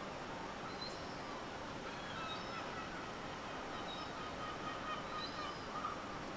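Faint, scattered bird calls, short pitched chirps and glides, over a steady background hiss.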